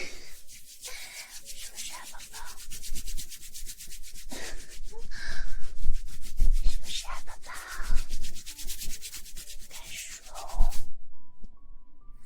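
Hands rubbing and stroking close against a binaural microphone as an ASMR massage: a fast run of fine, scratchy strokes that swells and fades several times, then stops about 11 seconds in.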